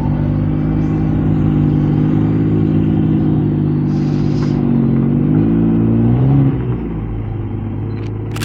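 Classic car's engine running close by with a steady hum; its pitch wavers around five to six seconds in, and the sound drops a step quieter at about six and a half seconds.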